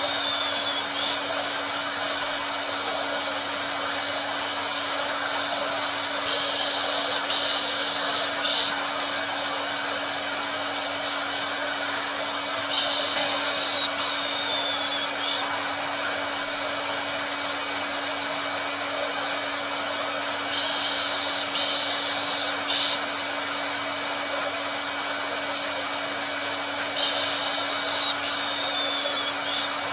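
Electric hair dryer running steadily: an even blowing hiss over a constant motor hum. A higher, brighter hiss swells in for about two seconds roughly every six to seven seconds, four times in all, in a repeating pattern.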